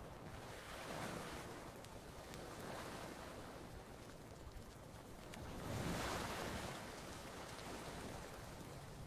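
Gentle ocean waves washing onto a beach, the sound swelling and ebbing in slow surges, the biggest about six seconds in.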